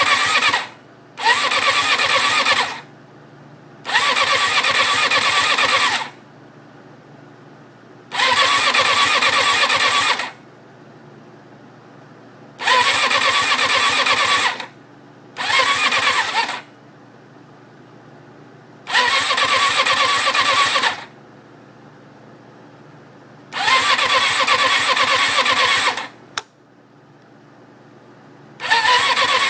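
A 1994 Suzuki RF600 inline-four being cranked on its electric starter in about eight short attempts of one to two seconds each, with pauses between, while a faint steady hum carries on. The engine turns over but never catches. The owner says it sounds like it is not getting gas, although it is drawing fuel and has spark.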